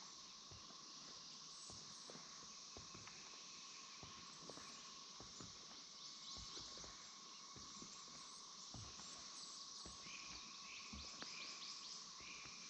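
Faint swamp ambience: steady high-pitched insect buzzing, a few short bird chirps near the end, and soft, irregular footsteps on the boardwalk.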